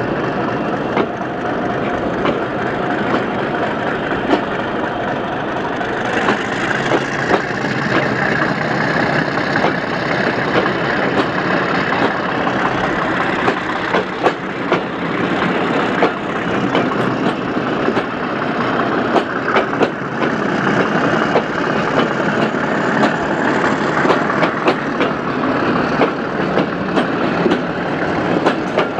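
Passenger train coaches rolling past, a steady rumble with their wheels clicking over the rail joints; the clicks come more often from about halfway through.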